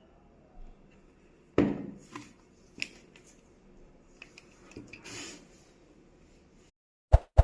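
Scattered knocks and taps of hard objects being handled, the loudest about a second and a half in, with a few lighter taps after it. Near the end the background cuts out and two short, sharp pops follow.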